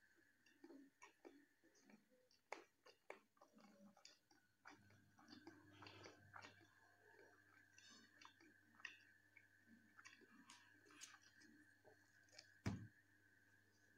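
Quiet, close-miked chewing and wet mouth clicks of someone eating soft food: rice, jackfruit curry and paratha. A single sharp thump near the end is the loudest sound, with a faint steady high whine underneath throughout.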